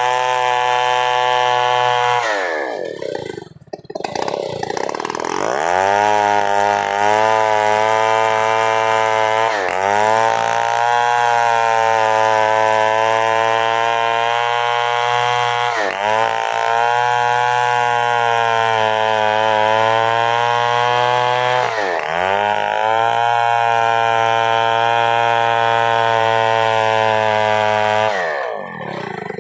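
Two-stroke chainsaw running at high revs. It drops off briefly about three seconds in, then revs back up, with short dips in pitch about every six seconds after that.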